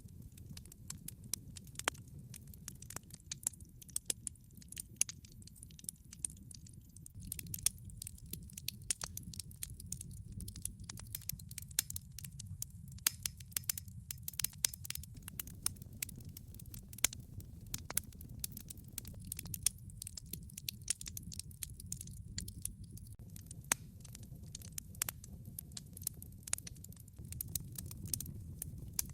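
Wood fire burning in a fireplace: a steady low roar of flames with many irregular sharp crackles and pops from the logs.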